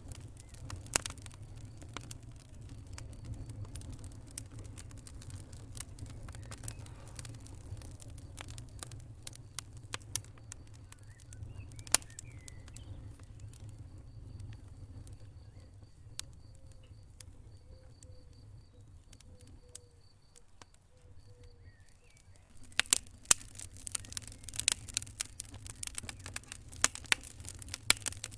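Wood fire in a fireplace crackling, with sharp pops scattered over a low steady rumble. The pops thin out for a few seconds and then come thick and fast near the end.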